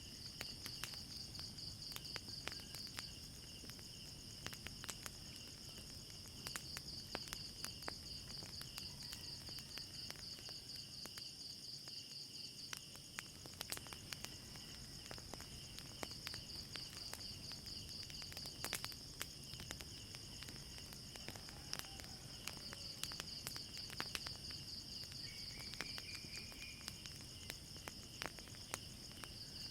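Crickets trilling steadily, with frequent sharp, irregular crackles of a wood fire. A short rising chirp is heard once near the end.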